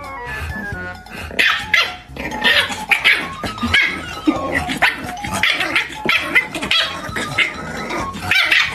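Puppy barking repeatedly at an adult dog, a long run of sharp barks at about two a second that starts about a second in, with a short bit of music before it.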